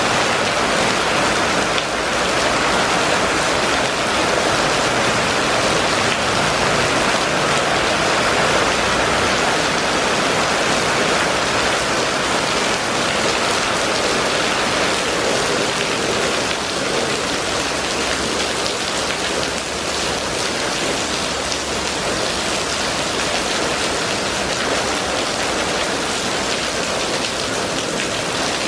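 Steady rain falling on a wet paved street awash with runoff: an even, unbroken hiss of drops.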